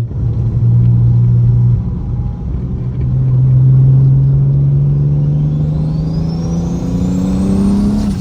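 Straight-piped BMW N54 inline-six with a big single turbo, accelerating in gear: the exhaust note climbs steadily over several seconds with a rising turbo whistle above it, then falls away at the end.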